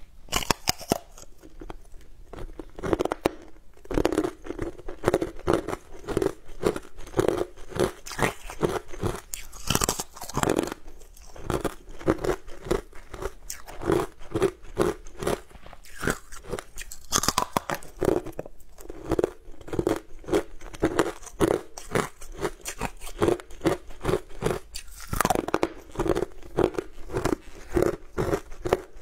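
Close-up crunching and chewing as a frozen bar coated in green powder is bitten and chewed, a few crisp crunches a second, with louder bites now and then.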